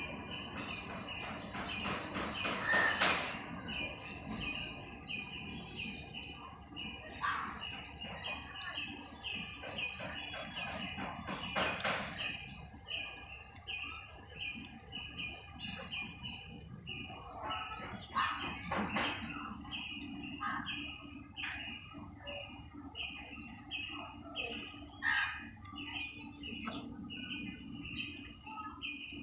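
Birds chirping outdoors: a steady run of short, evenly repeated chirps at a few per second, with a louder brief call now and then.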